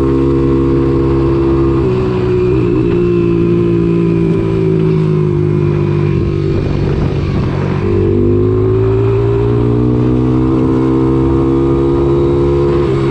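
An engine running at a steady speed. Its pitch drops about two seconds in, wavers, and climbs back up about eight seconds in.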